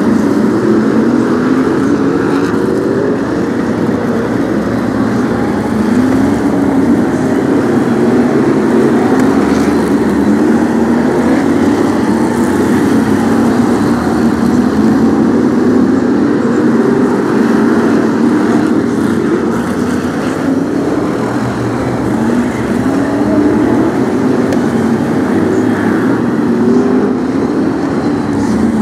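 A pack of Brisca F1 stock cars' V8 engines racing, the engine notes rising and falling again and again as the cars accelerate down the straights and back off into the turns.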